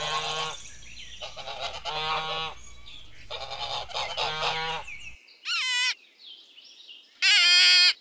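Greylag geese honking: a run of about five nasal honks, then two louder, higher-pitched calls near the end after the background hum cuts off abruptly.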